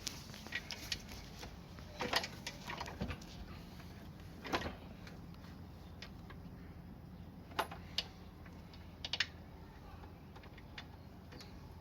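Scattered single clicks and knocks of tools and parts being handled during a motorcycle engine fitting, a few seconds apart, over a steady low hum.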